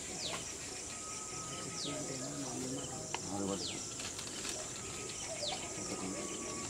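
A bird repeating a short whistle that slides downward in pitch, four times, about every second and a half, over a steady high hiss.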